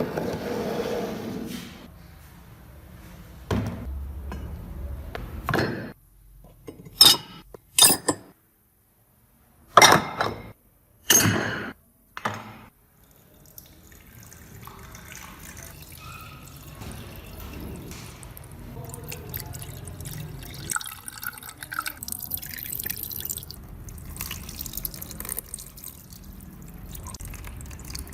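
Hard metal parts clinking and knocking as they are handled, with five sharp knocks in quick succession in the middle, then water dripping and trickling with light clinks.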